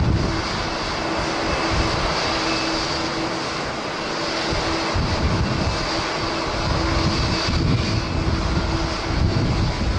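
Jet airliner's engines running with a steady roar and a faint held tone through it, while gusts of wind buffet the microphone with uneven low rumbling.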